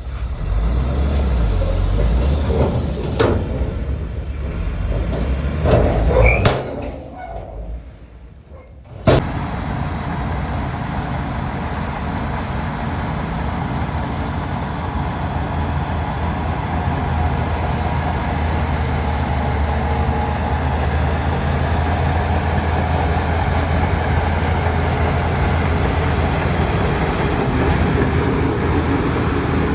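Heavy diesel earthmoving machinery running. In the first few seconds there are clanks and knocks over the engine rumble. About seven seconds in the sound dips away for about two seconds, then a sharp click, followed by a steady low engine drone.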